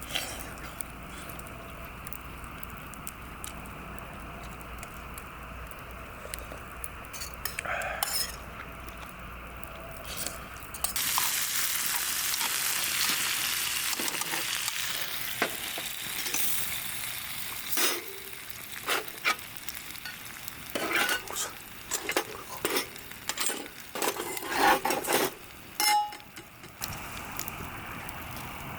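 Food goes into a hot pan about eleven seconds in and sizzles loudly, the hiss slowly easing. A utensil then stirs and scrapes it, with many sharp clinks against the pan.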